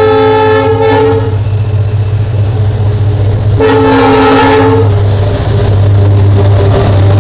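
Locomotive horn sounding twice, a blast that cuts off about a second in and a second, shorter blast around the middle, over the steady low rumble of the moving train.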